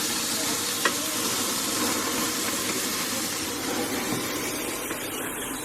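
Braai fire sizzling and crackling as a steady hiss, with one sharp pop about a second in.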